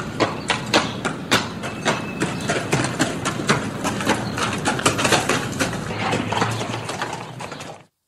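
Horse hooves clip-clopping on hard ground: a quick, uneven run of sharp knocks, about four a second, that fades and stops near the end.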